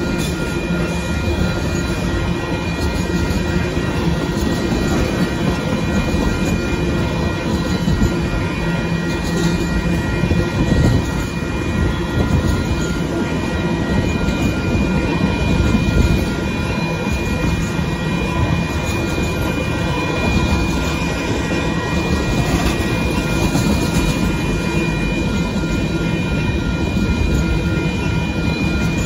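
Freight train of tank cars rolling past close by: a steady rumble and clatter of steel wheels on the rails. Several steady high tones run over it the whole time.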